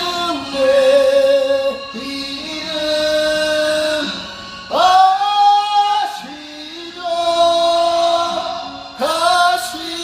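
A slow ballad sung over backing music, with the voice holding long notes with vibrato in phrases of a second or two.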